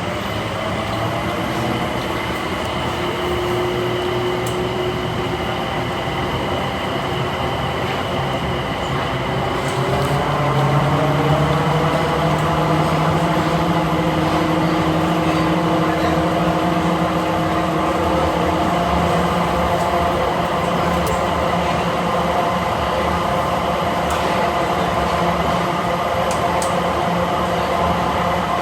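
Interior of the Dulles AeroTrain, a rubber-tyred automated people mover, riding between concourses: its motors whine steadily, with the whine rising in pitch as it picks up speed about ten seconds in, then holding level.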